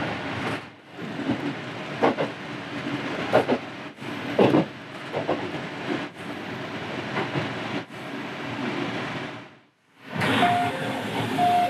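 An electric local train running on the line, heard from inside the car at the front: a steady rumble and hiss of wheels on rail with occasional knocks. Near the end, after a brief drop-out, a few short steady tones sound inside the train.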